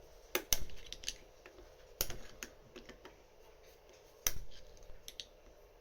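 Small metal parts of a Lagard 2200 combination lock clicking and knocking as they are handled and fitted: a quick cluster of clicks at the start, a few scattered taps, and the sharpest knock a little past four seconds in.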